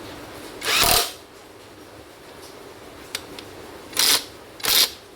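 Impact wrench running in bolts in three short bursts: one about a second in, then two close together near the end, with a couple of light clicks between.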